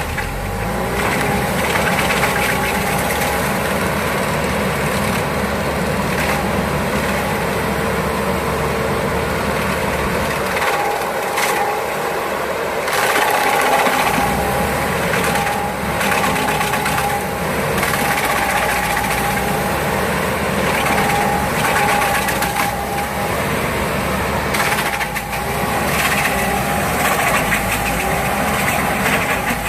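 Stump grinder's engine running hard as its cutting wheel grinds into a stump, the engine's pitch wavering under the changing load, with a few sharp knocks along the way.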